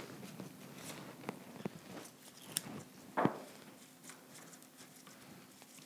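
Light rustling and small clicks of flower stems and foliage being handled, with one louder crunchy snip about three seconds in as a stem is cut.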